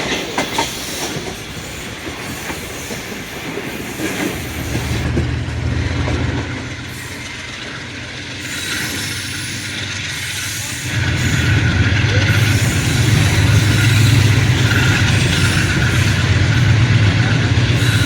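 Train on the move, wheels clacking over the rail joints, with the low drone of the AGE30 Blue Tiger diesel locomotive's engine coming in about four seconds in and growing louder about eleven seconds in.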